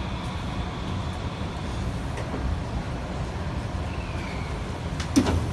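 Steady low rumble inside the car of a Kita-Osaka Kyuko 8000 series subway train, with a faint falling tone near the end and a sharp knock about five seconds in.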